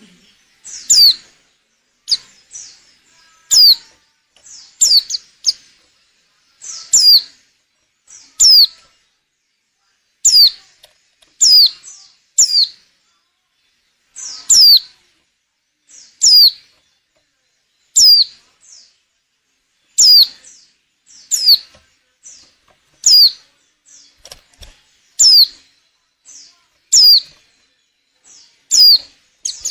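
Female white-eye (pleci) calling: short, sharp chirps that slide down in pitch, repeated about every one to two seconds. These are the calls of a female in breeding condition, used to excite males into singing and to lure them.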